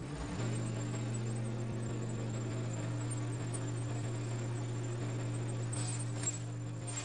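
A steady low mechanical hum, like a running motor, with a few faint crackles after the middle.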